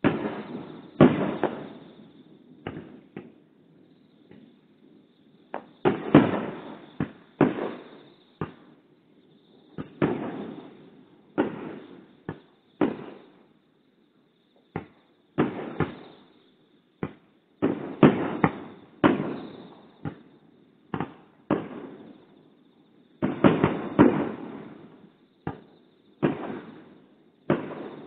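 Aerial fireworks shells bursting one after another at irregular intervals, each a sharp bang followed by an echo that dies away over about a second, with a brief lull about halfway through.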